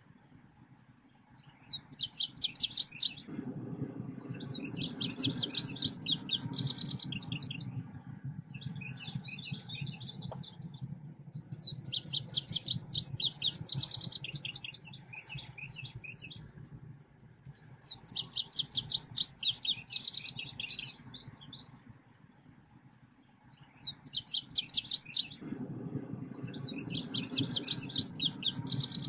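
A recorded selendang biru bird call played as a lure, in repeated bouts of rapid high chirping. Each bout lasts a few seconds and the bouts come about every six seconds, with short pauses between.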